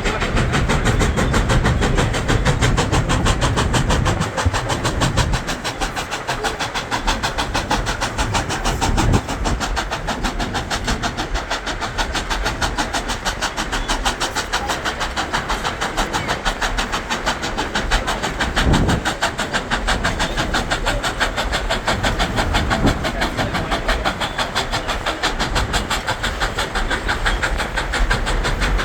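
Durango & Silverton narrow-gauge train running: a steady rumble and clatter of wheels on the rails, heard from aboard, with no whistle or break in the noise.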